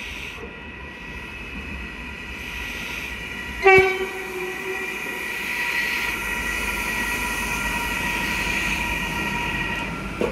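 ČD Cargo class 388 Vectron electric locomotive passing with an empty car-carrier freight train, giving a steady electric whine over the rumble of the train. A short, loud horn toot comes nearly four seconds in, and a sharp wheel knock comes at the very end.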